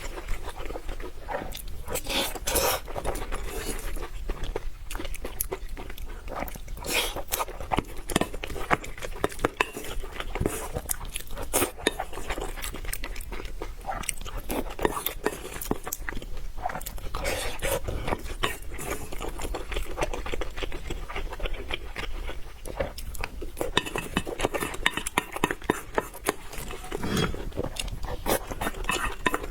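A person eating noodles close to the microphone: steady chewing and wet mouth sounds made of many small clicks and smacks.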